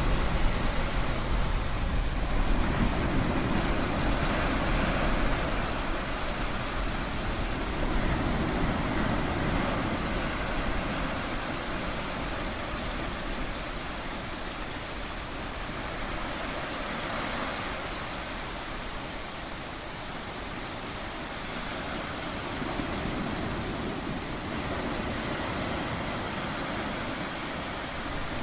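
Ocean surf: a steady hiss of breaking waves that swells and eases every several seconds.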